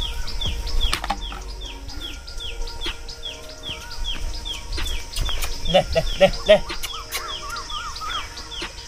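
A bird calling over and over, a short falling chirp about three times a second. About six seconds in comes a brief run of four louder, lower calls.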